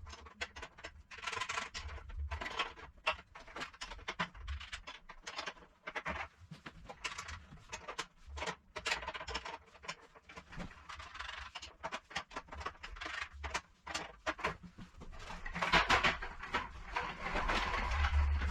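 Irregular clicks, knocks and scraping from objects being handled and worked on by hand, busier and louder near the end.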